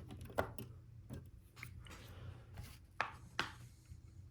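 Small plastic Lego Technic pieces being handled: a few sharp clicks and short scrapes, the loudest about half a second in and around three seconds in.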